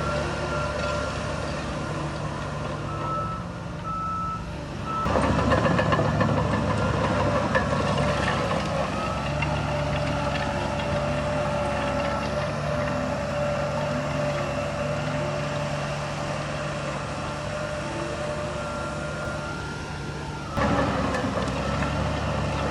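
Diesel engines of heavy earthmoving machinery (bulldozer and dump truck) running, with a vehicle's reversing alarm beeping at times. The machine noise turns abruptly louder about five seconds in.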